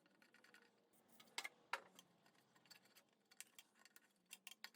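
Near silence with faint, scattered clicks and taps of hand tools on the engine as an intake manifold is removed from a VW type 4 engine, two slightly louder ones about a second and a half in.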